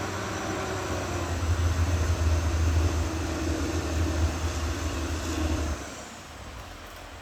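Caterpillar D6R XL bulldozer's diesel engine working under load, a deep steady drone that grows louder about a second and a half in, then drops off sharply about six seconds in.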